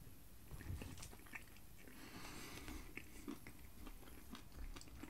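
Faint close-up chewing and biting of battered chicken and waffle fries, with small crunches and light clicks of a metal fork against the foil tray.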